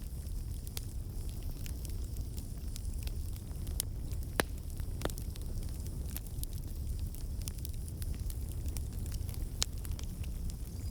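Campfire burning: a steady low rumble of the flames with irregular sharp crackles and pops, two of them louder, a little before halfway and near the end.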